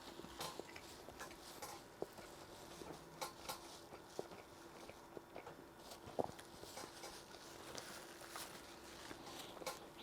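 Quiet, close-up chewing of a mouthful of burger, with scattered soft wet clicks and smacks of the mouth at irregular intervals.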